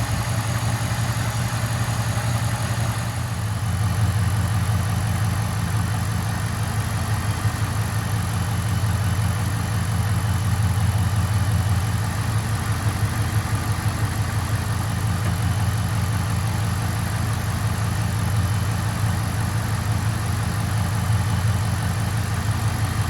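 A 2008 Dodge Dakota's 4.7-litre V8 idling steadily on 0W-20 synthetic oil, which the owner credits with making it run smoother and quieter.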